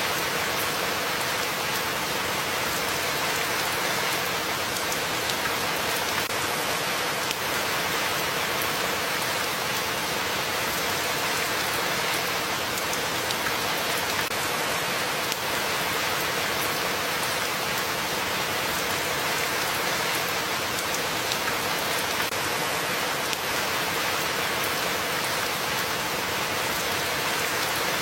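Steady, even rain falling on a surface, with many fine drops and no changes.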